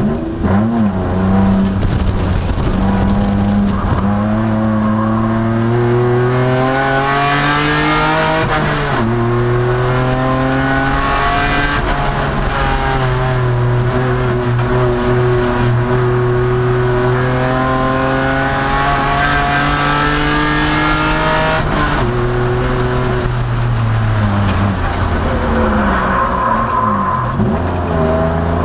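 A 2002 Nissan Maxima race car's V6 engine running hard on track. The engine note climbs steadily under acceleration and drops sharply a few times, about 9 and 22 seconds in, at gear changes or braking, then climbs again near the end.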